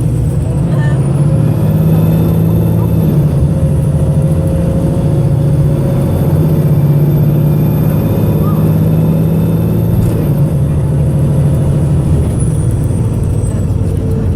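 VDL SB200 single-deck bus's diesel engine running loud and steady under load, with a thin high whine that rises about a second in and falls away near the end. The engine is misfiring and sounding rather unhealthy.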